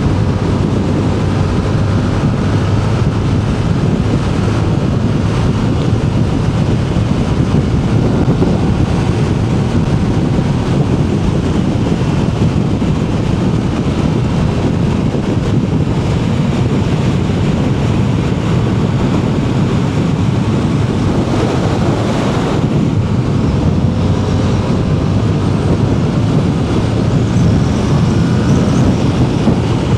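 Heavy wind rush on a riding motorcycle's microphone, over the bike's engine running steadily at cruising speed.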